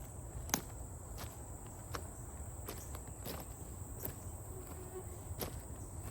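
Slow, even footsteps on the gravel and wooden ties of a disused railway track, about eight steps at roughly one every 0.7 seconds, over a steady high-pitched insect trill.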